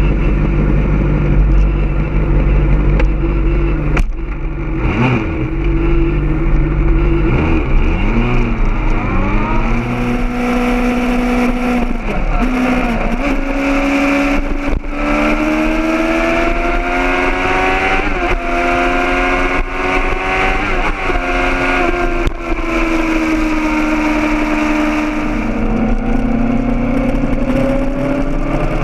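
Honda CBR600RR's inline-four engine running low and steady for several seconds, then accelerating, its pitch climbing and dropping back at each gear change and easing off near the end. A constant low rumble of wind on the mic runs underneath.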